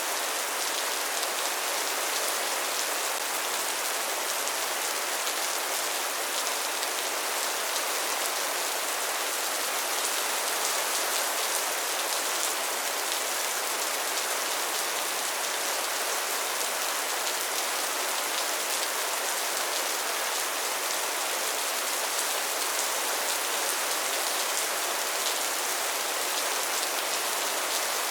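Steady rainfall: an even hiss of rain with fine drop patter on a surface, with no thunder.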